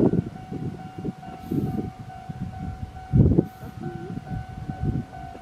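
Steam locomotive C58 363 working past, its exhaust chuffing in uneven heavy beats, the loudest about three seconds in, under a faint steady high tone.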